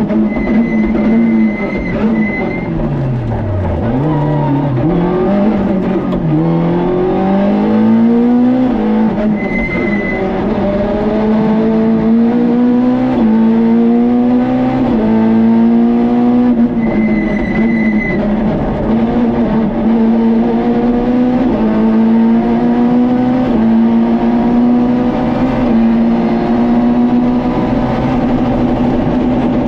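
Peugeot 106 rally car's engine heard from inside the cabin. The revs fall sharply over the first few seconds as it slows, then climb through a run of quick upshifts, each gear's rising pitch dropping back at the shift. It then holds high revs fairly steadily under full throttle for the rest of the run.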